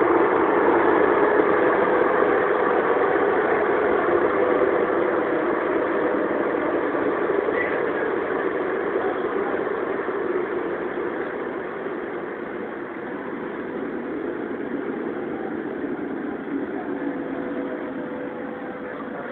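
Lisbon Metro train running, heard from aboard: a steady rumble of wheels and motors that grows gradually quieter, with a faint steady whine toward the end.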